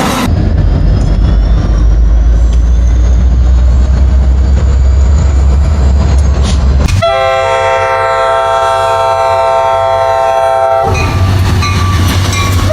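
Diesel locomotive passing with a loud deep rumble, then a multi-chime air horn sounding one long blast of about four seconds, then the rumble again.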